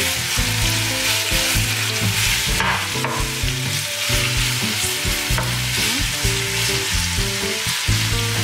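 Diced chicken breast sizzling steadily as it fries in hot olive oil in a sauté pan, stirred and turned with a spatula.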